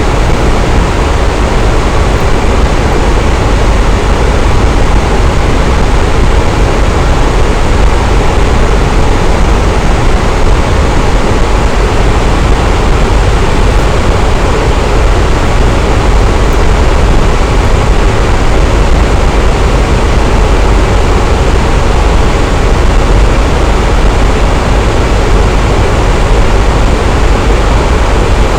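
Electric fan running steadily: a loud, even whooshing hum with the most weight in the low range and no change in speed or pitch.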